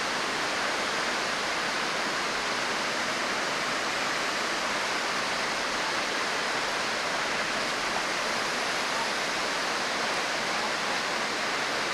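Steady, even hiss-like rushing noise that starts abruptly and holds one level throughout, with no changes or separate events.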